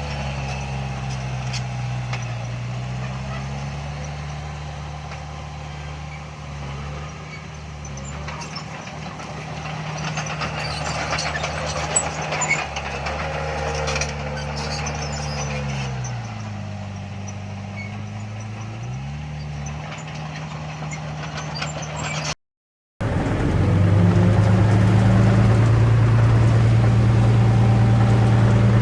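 Heavy diesel engines of earthmoving machines running, the engine pitch dropping and climbing back around the middle, with scattered clanks. After a brief cut to silence near the end, a louder engine runs steadily.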